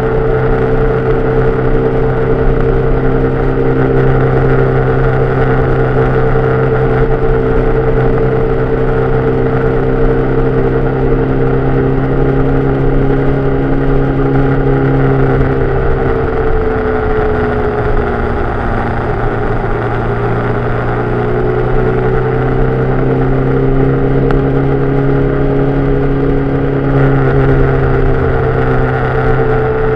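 Onboard sound of a vehicle driving in the rain: a steady engine drone over road and wind noise. About halfway through, the engine note drops, then climbs again a few seconds later, as the vehicle slows and speeds up.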